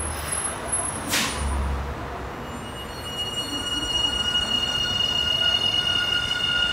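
Commuter train at a station platform giving a steady, high-pitched metallic squeal that starts about two and a half seconds in and grows louder. A short hiss comes about a second in.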